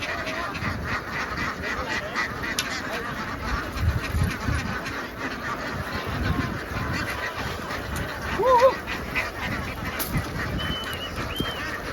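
A large flock of ducks calling and quacking all at once in a dense, continuous din, with one louder call about eight and a half seconds in.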